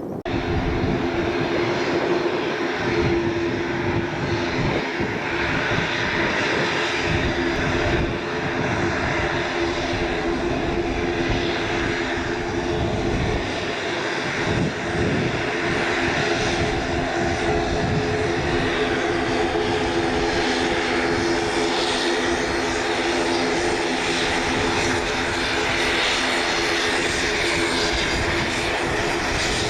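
Propeller aircraft engine running steadily with a constant propeller drone; it begins abruptly.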